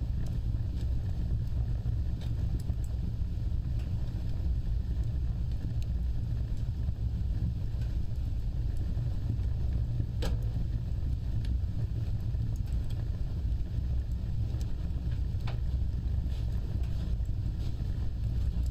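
Fireplace fire burning with a steady low rumble of flames and sparse crackles and pops. One sharper pop comes about ten seconds in, and the crackles come more often near the end.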